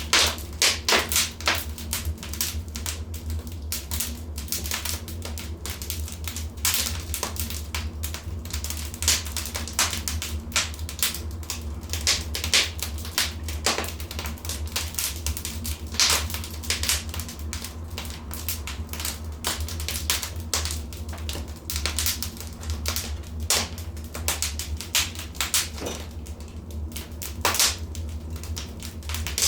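Wood fire in a fireplace crackling, with irregular sharp pops and snaps of uneven strength over a low, steady rumble.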